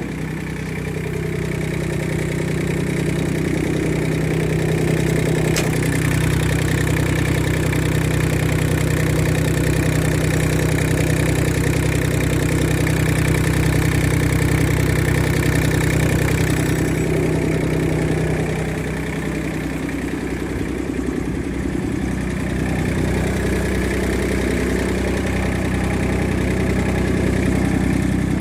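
Yanase snowblower's three-cylinder diesel engine running steadily. About two-thirds of the way through, the higher hiss dies away and the engine dips slightly in loudness for a few seconds, then picks back up.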